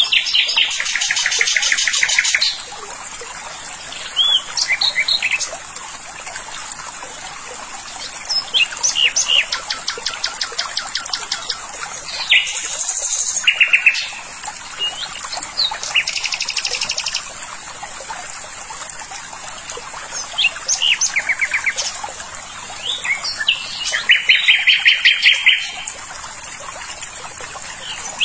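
Songbirds singing: several fast, high trills of a second or two each, repeated every few seconds, with short chirps between them.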